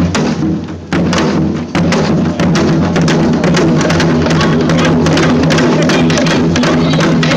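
Live percussion-driven music: rapid, dense drum strokes over a sustained low pitched tone, played continuously at full volume.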